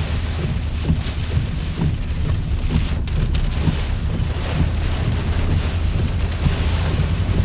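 Hurricane eyewall rain and wind driving steadily against a vehicle, with a constant low rumble under it.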